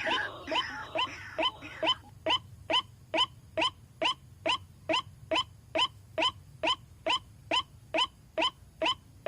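White-breasted waterhen (ruak-ruak) calling: for about two seconds a busy, harsh stretch of overlapping calls, then a monotonous, evenly spaced series of short rising 'kwak' notes, a little over two a second.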